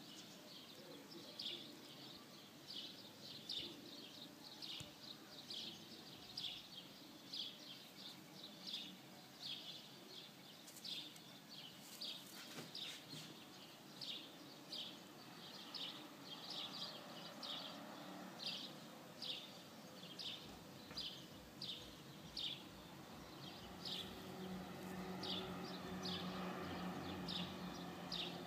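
A bird chirping over and over, short high chirps about once a second. A faint low hum joins in about three-quarters of the way through.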